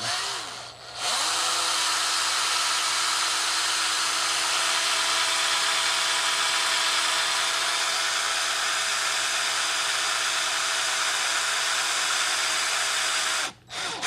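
A small power tool's motor running steadily at one speed while an engine valve is wet-sanded with 800-grit paper to take off carbon deposits. It starts about a second in and stops shortly before the end.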